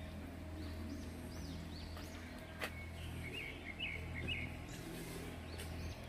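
Small birds chirping: a few short arching calls in the first second and a quick cluster of chirps about halfway through, over a steady low background hum.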